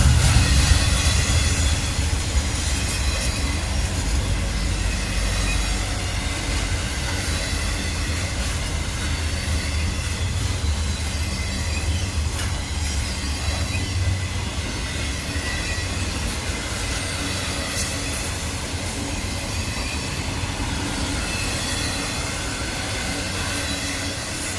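Freight train cars rolling past on the rails, with the steady rumble of steel wheels on track, some clicking over rail joints and a faint high wheel squeal. The sound eases off gradually.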